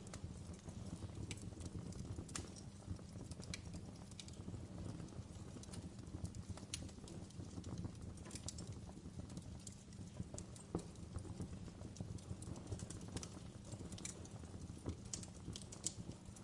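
Wood fire burning in a fireplace: a steady low rush of flame with irregular sharp crackles and pops, a few louder snaps among them.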